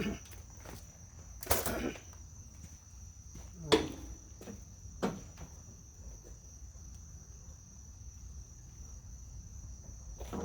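Crickets trilling steadily in a high, unbroken tone, with a handful of separate knocks and rustles in the first half, the loudest about two seconds in and near four seconds.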